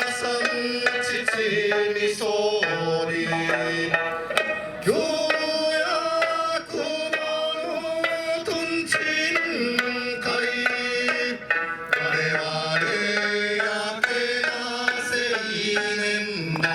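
Traditional Okinawan eisa music: a sung folk melody with sliding held notes over sanshin accompaniment, punctuated by regular taiko drum strikes.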